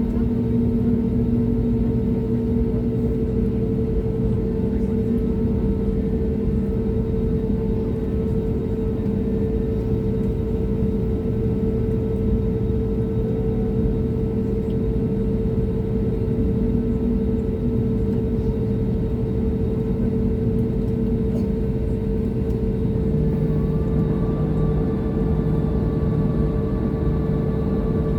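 Airbus A320 jet engines running steadily, heard inside the passenger cabin as an even roar with a constant hum. About two-thirds of the way through, a new, higher steady tone joins in.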